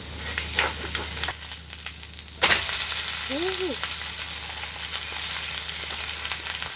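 Food sizzling in a pan in rendered pork-belly fat, with no cooking oil added. There is a sharp clack about two and a half seconds in.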